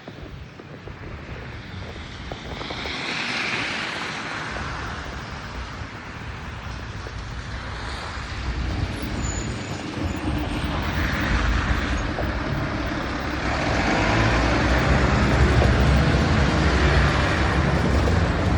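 Street traffic in a snowstorm: vehicles passing one after another, their tyre noise swelling and fading, with a low rumble that grows louder near the end.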